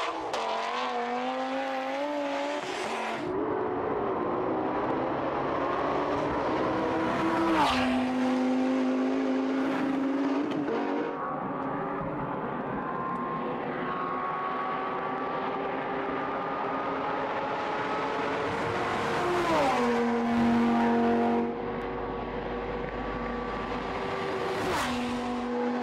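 Sports car engines at full throttle in a drag race, the note climbing steadily in pitch through long pulls and dropping sharply a few times, as the Nissan GT-R Alpha 12+ and BMW M6 accelerate down the strip.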